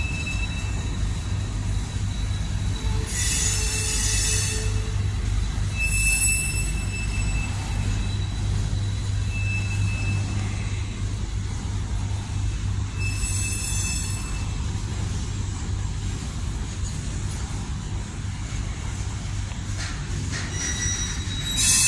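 Freight cars of a long, slow-moving manifest train rolling past with a steady low rumble, their wheels squealing on the rails several times.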